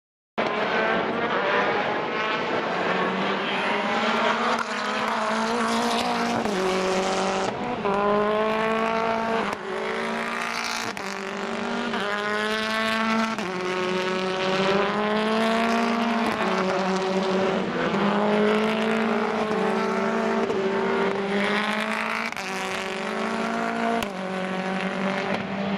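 British Touring Car Championship race car engines at full throttle, the pitch climbing and then dropping back over and over as the cars shift up through the gears.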